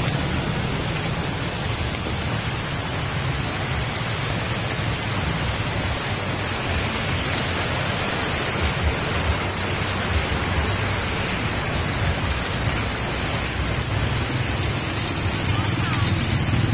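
Steady hiss of heavy monsoon rain over a flooded street, with a low rumble of vehicle traffic underneath.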